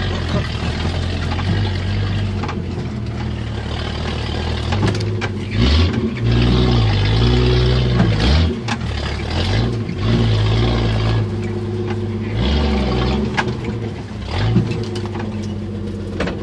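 1977 Jeep CJ5's engine running under load off-road, its revs repeatedly rising and falling, with scattered knocks and rattles.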